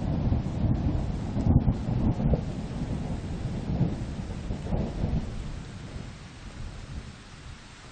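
Rain falling steadily in a spruce forest under a deep, uneven rumble. The rumble fades away over the last few seconds, leaving only the hiss of the rain.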